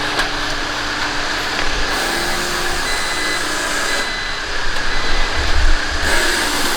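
A steady mechanical running sound with a hiss, switched on to pressurise the car's fluid lines for a leak check, with a few low thumps about five seconds in.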